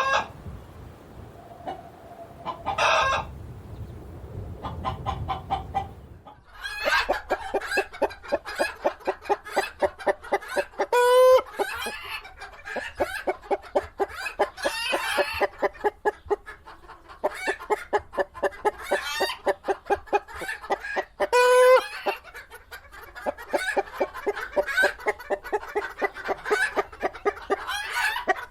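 Chickens clucking. A few scattered calls over a low background rumble give way, about six seconds in, to a flock's rapid, continuous clucking, broken twice by a louder, higher call.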